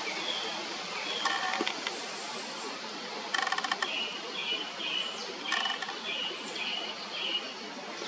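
Forest birds calling: short high chirps repeating about every half second, with a lower, harsher call three times, over a steady outdoor hiss.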